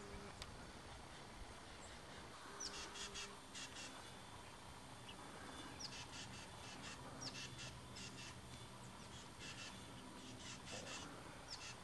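Faint bird calls: short runs of quick, high repeated notes, heard four or five times, over a faint low steady hum.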